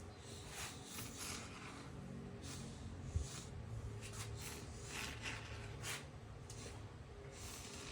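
Expanding spray-foam can dispensing foam into a golf cart seat in a series of short hissing bursts.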